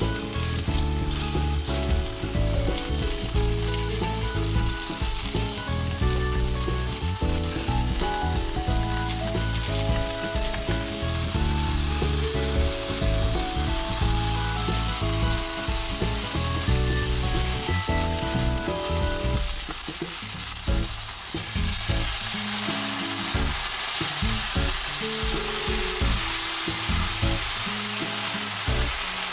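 Chicken breast pieces sizzling in oil in a nonstick frying pan, a steady frying hiss. In the last third, chopsticks stir chicken and potato chunks through the pan with small clatters as the frying goes on. Background music plays under the sizzle for roughly the first two-thirds.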